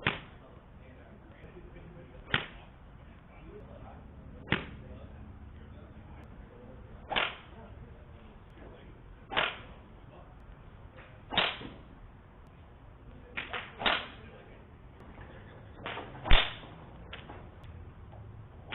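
A series of sharp ball strikes, about every two seconds, with a short swish trailing each. Three strikes come in quick succession just before the last third, and the loudest comes near the end.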